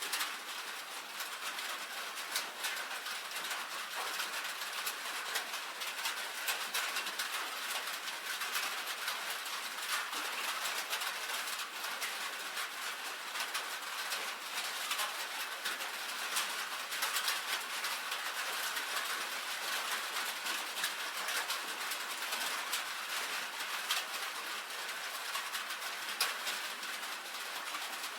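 Steady rain on a tin roof: a dense, even patter of countless small drop ticks, thin and bright, with no deep rumble.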